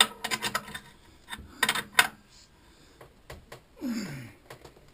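Sharp metallic clicks and knocks of tools and machine parts being handled as a machine setup is tightened down, in a quick cluster at the start and again about two seconds in. A short sound falling in pitch comes near the end.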